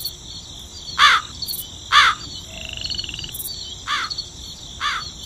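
Countryside ambience: a bird calls four times, about a second apart, over steady high insect chirping.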